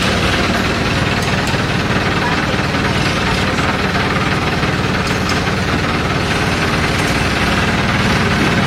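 Long-tail boat's engine running steadily and loudly while the boat is under way.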